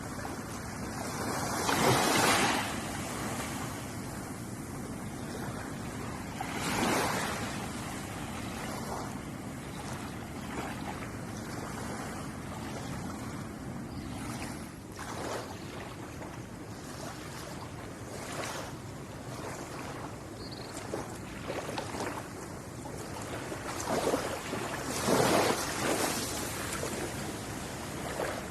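Ocean waves washing onto a shore: a steady surf hiss with a few louder breaking swells, the biggest about 2 seconds in, around 7 seconds and near the end, and smaller splashes in between.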